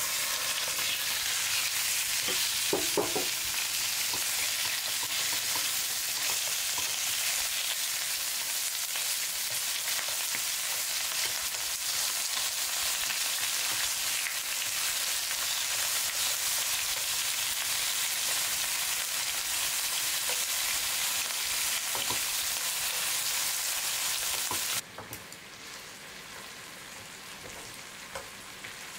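Raw chicken thigh pieces sizzling in hot oil and garlic in a frying pan as they go in and are stirred with chopsticks, with a few light clicks about three seconds in. The sizzle drops suddenly to a softer frying hiss near the end.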